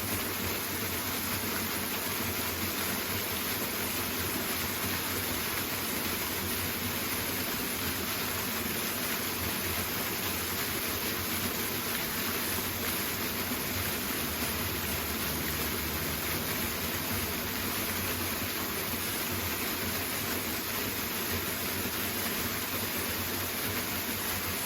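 Steady rush of a powerful waterfall, an even unbroken roar of falling water.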